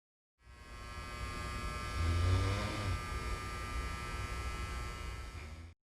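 A steady electrical buzz over a low hum. It swells louder for about a second near the middle, and it starts and cuts off abruptly.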